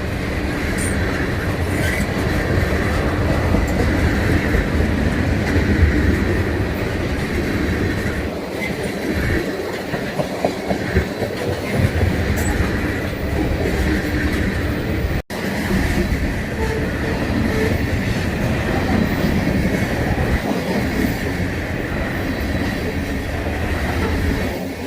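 Freight train cars rolling past, steel wheels clicking over rail joints with a steady rumble. The sound cuts out for an instant about fifteen seconds in.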